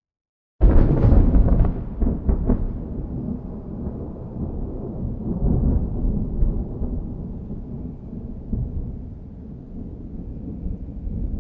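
Thunderclap: a sudden loud crack about half a second in, a few more cracks over the next two seconds, then a long rolling rumble that slowly fades.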